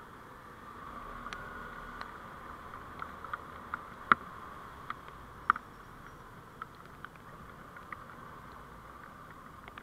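Steady road and running noise from a moving vehicle picked up by a dashcam microphone, with scattered sharp clicks and ticks, the loudest two about four and five and a half seconds in.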